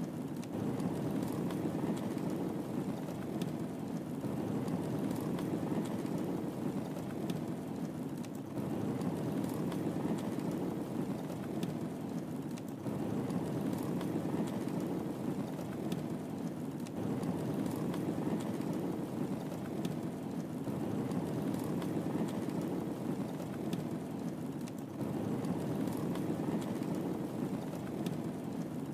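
Wood fire burning in a fireplace: a steady low rush of flame with scattered sharp crackles and pops, the pattern repeating about every four seconds.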